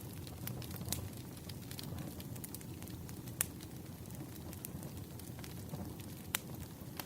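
Wood fire crackling: a steady low rumble of burning logs with frequent small sharp pops, two of them louder, one midway and one near the end.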